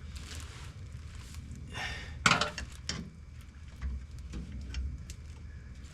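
Light metallic clinks and taps of a bolt and hand tools being handled while a bolt is started by hand, with one louder clink a little over two seconds in, over a low steady rumble.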